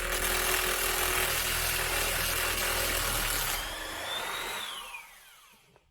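Handheld power tool running hard on the bus floor work for about three and a half seconds. Its pitch then rises briefly and winds down in a long falling whine as the tool is released and spins to a stop.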